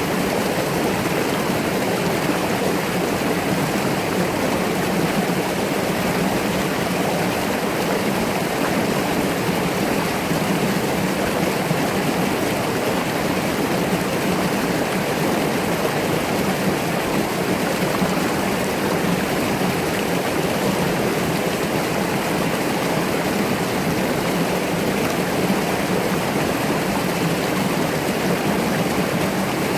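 Mountain stream running over rocks: a steady, unbroken rush of flowing water.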